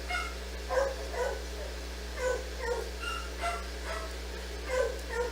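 A dog barking in short calls, about ten of them, mostly in quick pairs.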